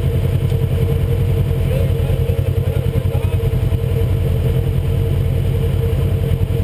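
UTV engine running at a steady speed while the machine is driven, with no clear revving up or down.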